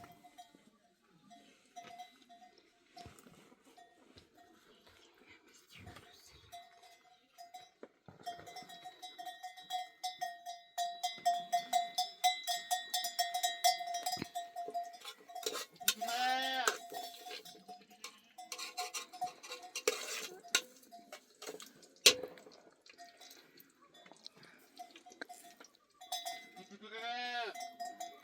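Bells on a herd of sheep and goats clanking and ringing repeatedly, busiest in the middle. An animal of the flock bleats twice: once about halfway through and again near the end.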